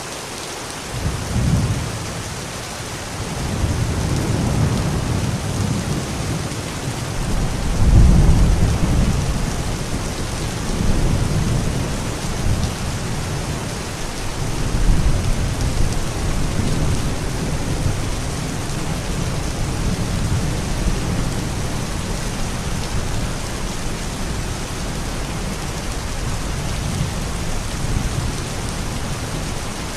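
Steady rain with rolling thunder that swells and fades again and again, loudest about eight seconds in.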